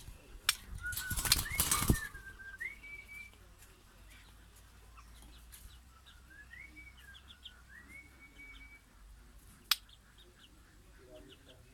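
A caged white-crowned shama flapping its wings, a loud fluttering burst about a second in, with a sharp click shortly before it and another near the end. Two slow whistled phrases of rising and falling notes sound in between.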